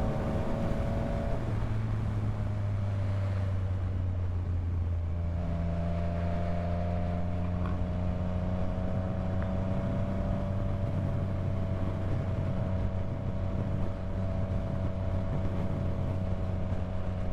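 Yamaha MT-09 three-cylinder motorcycle engine running at a steady pitch as it rides along, its note shifting slightly about a second and a half in and again about five seconds in, then holding even.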